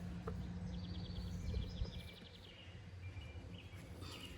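Songbirds chirping, with a fast trill of rapid repeated notes about a second in and short chirps after. Under them are a low background rumble and a steady low hum that fades out about two seconds in.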